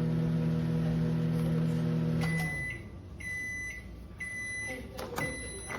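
Countertop microwave oven running with a steady hum, which its owner says lights up inside but does not work; about two seconds in the hum stops and the oven gives four short high beeps, about one a second, as the cycle ends.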